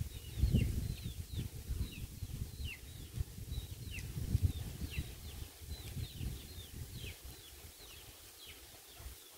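Small birds chirping over and over: short, high, downward-sliding chirps, several a second. Under them an irregular low rumble of wind on the microphone, which dies down about halfway through.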